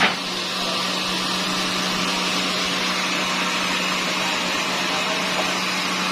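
Sawmill machinery running steadily, a constant motor hum under an even rushing noise. There is one sharp knock right at the start.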